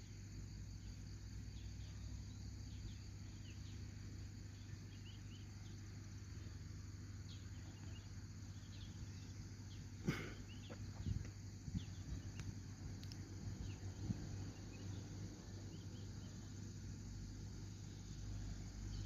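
Outdoor nature ambience: insects and scattered short bird-like chirps over a low steady hum. A sharp click comes about halfway through, followed by a few softer knocks.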